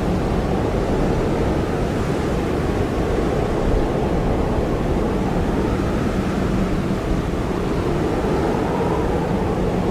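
Blizzard wind blowing hard and steadily: a deep, unbroken rush with a faint howl that drifts slowly in pitch.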